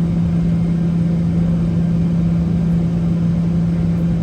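Cabin sound of a Boeing 717 near its tail-mounted Rolls-Royce BR715 engines, running at idle: a steady drone with one strong held tone over a low rumble and hiss.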